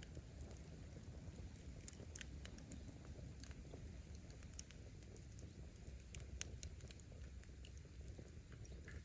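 Wood fire crackling: scattered sharp pops of burning firewood over a low steady rumble.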